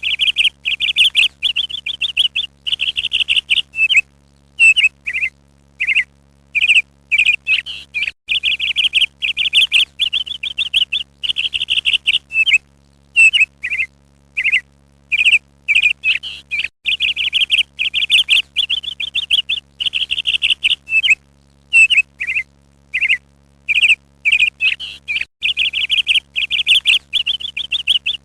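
A songbird singing in phrases of fast, even trills on much the same pitch, broken by short downward-sliding chirps and brief pauses.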